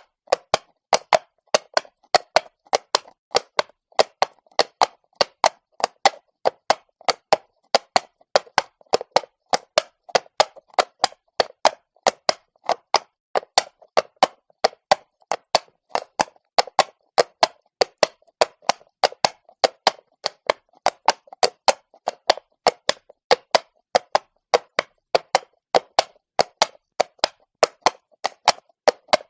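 Horse's shod hooves walking on cobblestones: a steady clip-clop of sharp knocks, about four a second.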